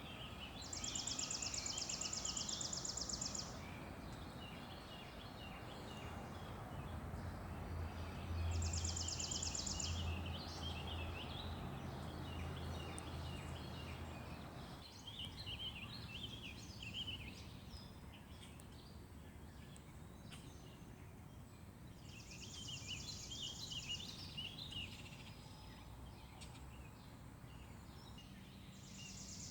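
Distant heavy truck engine rumbling on the road, with a low drone that swells from about 8 seconds in and cuts away about halfway. Over it, dawn birdsong: chirping and four high, buzzy trills of a couple of seconds each.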